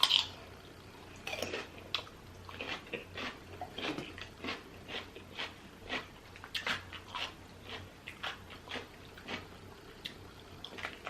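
Close-miked chewing of saucy seafood boil: irregular wet mouth clicks and smacks, two or three a second.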